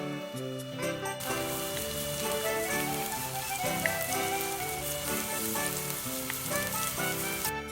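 Food frying in hot oil: a dense, even sizzle that starts suddenly about a second in and cuts off just before the end, over background music.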